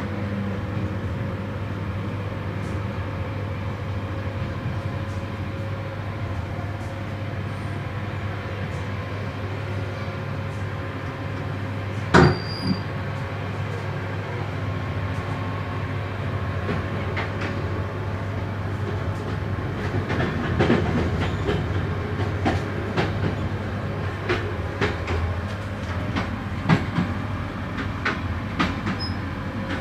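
Running noise of a moving passenger train, heard from the vestibule of a UIC-Z1 coach hauled by a Bombardier-ADtranz DE 2000 diesel locomotive: a steady low drone with a held tone. There is one sharp knock about twelve seconds in. In the second half, wheel clicks over rail joints come more and more often.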